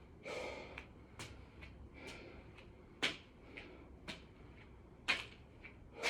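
A man breathing hard from exertion during burpees: short, sharp huffs and gasps about every second, three of them louder than the rest.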